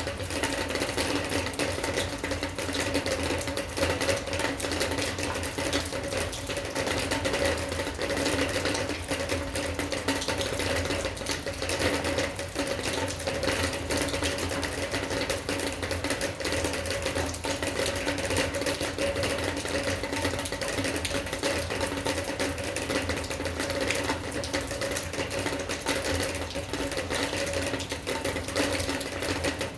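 Steady rain, a dense, unbroken run of drop hits, with a steady low hum underneath.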